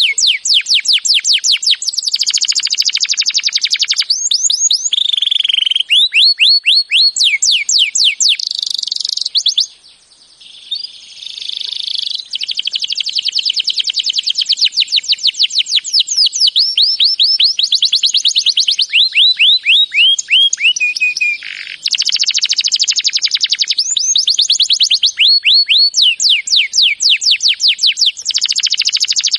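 Songbird singing long, fast trills of rapidly repeated falling notes, with a short break about ten seconds in.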